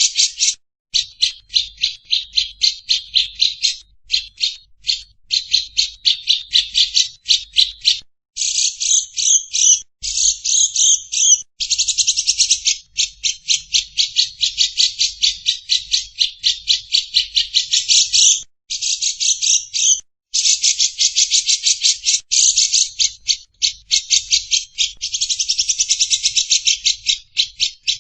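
Recorded bird calls: a fast, buzzy, rattling chatter of rapidly repeated high notes, coming in runs of a few seconds separated by brief breaks.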